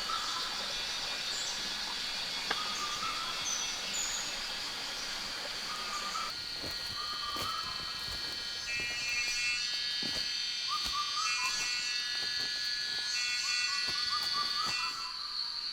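Rainforest ambience: a steady high-pitched insect drone with short, wavering animal calls repeated every second or two, and a few faint clicks in the middle.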